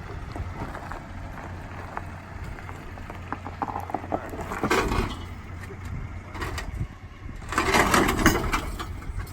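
An off-road truck's engine running low and steady as it crawls slowly over rock, with louder bursts of tyres crunching and grinding over rock and gravel about halfway and near the end.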